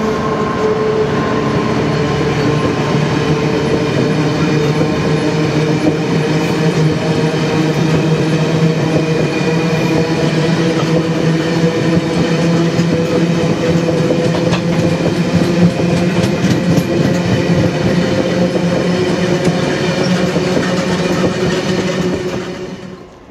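Freight train of bogie tank wagons rolling past close by, with wheels clicking over the rail joints and a steady humming tone under the rumble. The sound cuts off suddenly near the end.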